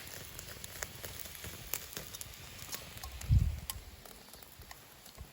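Campfire crackling with scattered sharp pops over a faint hiss, as a steak sizzles on a wire grill over the fire. A single low thump comes about three and a half seconds in.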